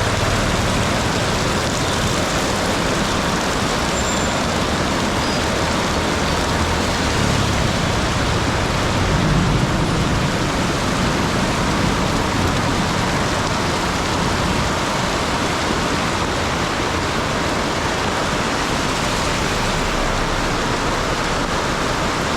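Heavy rain falling steadily, with road traffic rumbling underneath; a low rumble swells briefly about nine seconds in.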